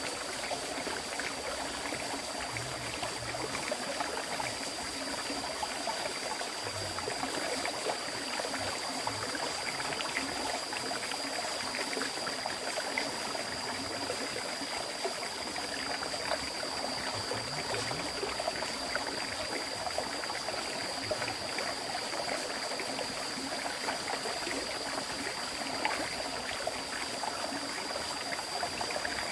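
River water flowing steadily, a continuous trickling and rushing, with a thin steady high tone above it.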